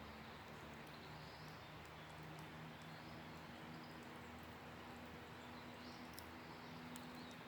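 Campfire crackling faintly, with a few sparse small pops, over a quiet outdoor background with a handful of faint high chirps.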